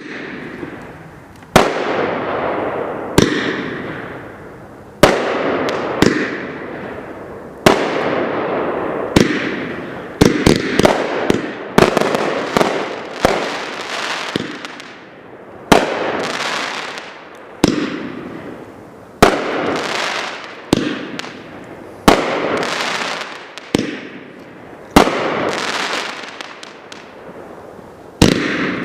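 Fireworks going off: a sharp bang every second or two, each followed by a fading crackle, with a quicker run of bangs about ten seconds in.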